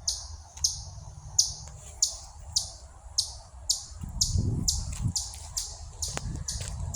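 A bird repeating a short, high, downslurred chirp over and over, a little under twice a second. A brief low rumble joins it about four seconds in.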